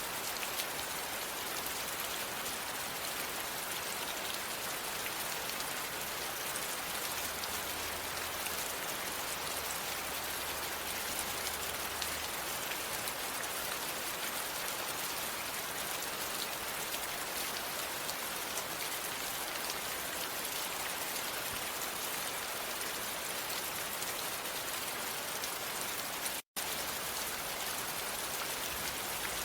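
Steady rain falling, an even hiss of many drops with no change in intensity. About 26 seconds in, the sound drops out completely for an instant, like a splice in a looped recording, then resumes unchanged.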